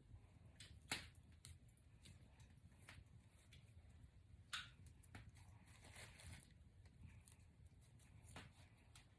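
Faint, irregular rustling and crackling of box braids being unravelled and pulled apart by hand, with two sharper clicks about one second and four and a half seconds in.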